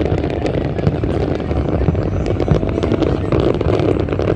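Fireworks display crackling in dense, rapid pops over a steady low rumble.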